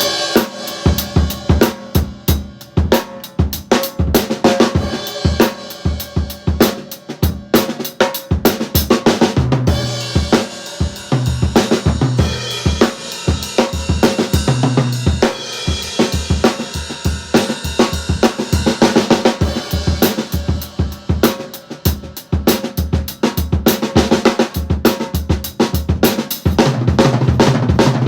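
Sonor micro drum kit played as a continuous groove with fills: bass drum and snare strokes under cymbals and hi-hat, with tom hits in a few fills.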